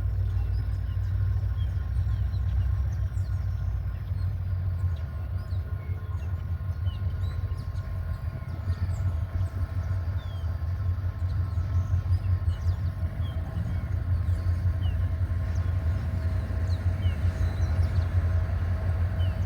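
GT22 diesel-electric locomotive running with a steady deep rumble and faint steady whining tones above it, growing a little louder in the second half.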